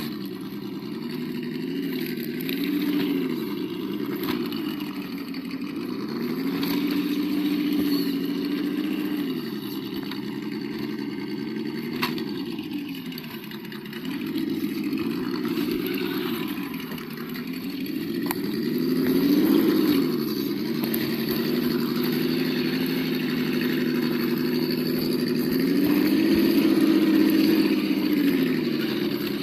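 Sound module of an Absima Yucatan 1:8 RC crawler playing a simulated engine note through its small speaker. The note idles and revs up and down over and over as the throttle is worked.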